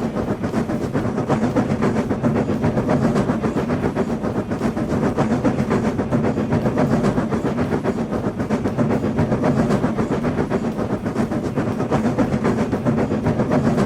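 Train running along the track: a steady rumble with fast, continuous clattering of wheels on rails.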